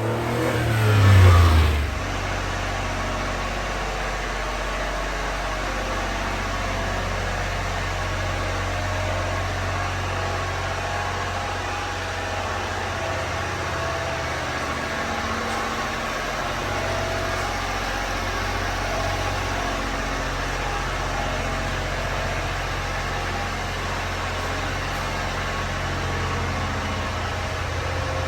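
1994 Honda Acty mini truck's small three-cylinder engine rising sharply in revs in the first two seconds, then settling into a steady idle.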